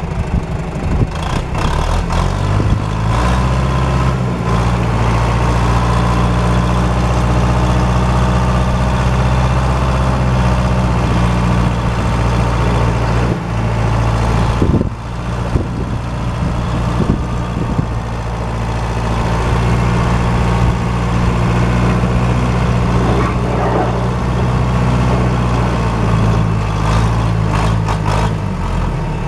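John Deere JD500 Series-B loader backhoe engine running steadily, its speed stepping up a few seconds in, dipping briefly around the middle and changing again near the end.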